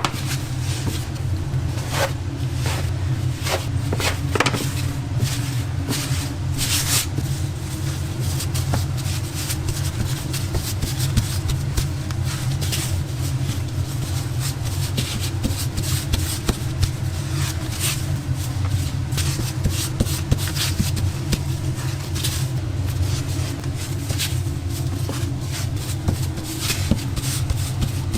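Steady low machine hum under scattered clicks, knocks and scrapes of kitchen work.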